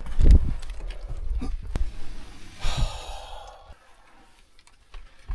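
A person's long sigh, with handling bumps and sharp clicks before it.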